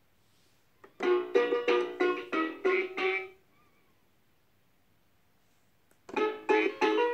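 Short electronic jingle from a Fisher-Price puppy activity table's toy speaker: a quick run of plucked-sounding notes about a second in, a pause of a few seconds, then another run of notes near the end.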